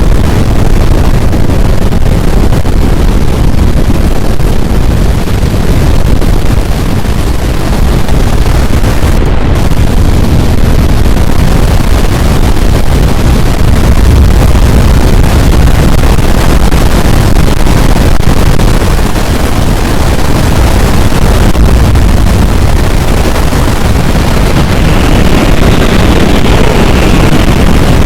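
Strong wind blasting the microphone: a loud, steady rushing noise that overloads the recording.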